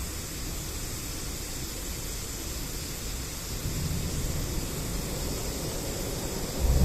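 Wind rumbling on the microphone over a steady hiss, with gusts swelling about halfway through and sharply louder near the end.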